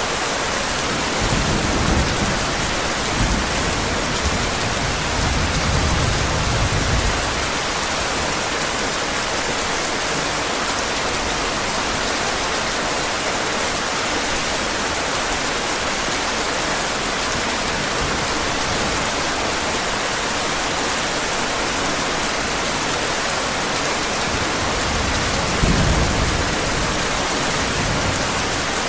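Heavy rain falling steadily, with low rolls of thunder: a long one from about one to seven seconds in and a shorter one near the end.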